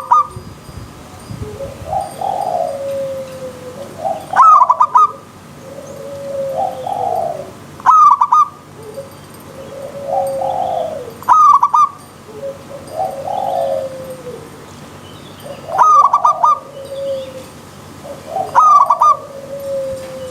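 Zebra dove (perkutut) cooing: a loud, short, stuttering call repeats about every 3 to 4 seconds, with softer, lower coos in between.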